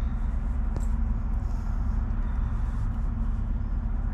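A steady low rumble with a constant hum, with a faint click about a second in.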